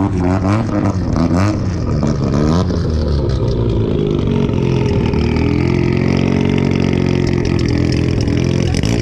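Car engines: one is blipped in several short revs for the first few seconds, then holds a steady note that slowly rises and falls, over the constant low drone of another engine idling.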